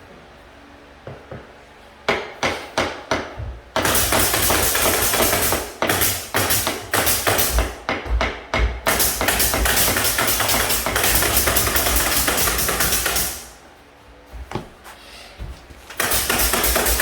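Hammering: about six sharp separate blows, then a long dense run of rapid blows, and another short run near the end.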